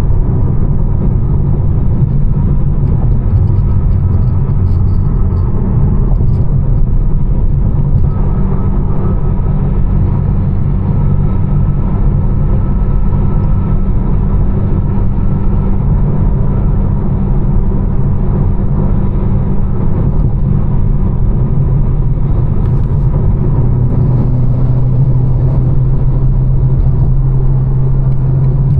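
BMW M4 Competition's tuned, catless twin-turbo inline-six droning steadily while cruising, with road noise, heard from inside the car. The engine note shifts slightly and grows stronger near the end.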